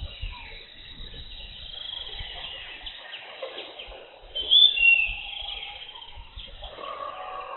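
Forest birds chirping and calling steadily, with one louder call about two-thirds of the way through that drops in pitch.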